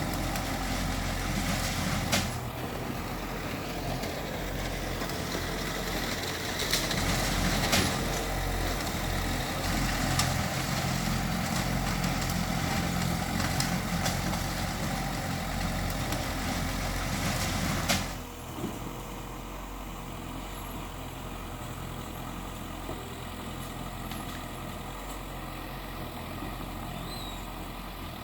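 Heavy diesel earthmoving machinery running, with several sharp metallic clanks. About eighteen seconds in it drops to a quieter, steady running.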